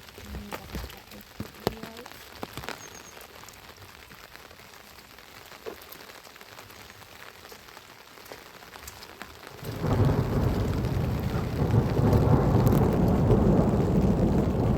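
Rain falling, with scattered drops ticking close by; about ten seconds in, a loud steady rumbling noise sets in suddenly and carries on.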